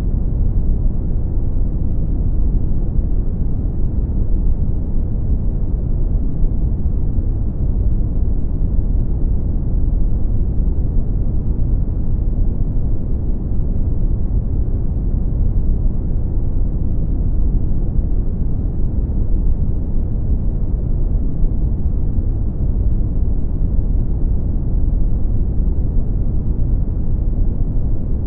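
Brown noise: a steady, deep rumbling hiss with most of its energy in the low bass and little treble, unchanging throughout.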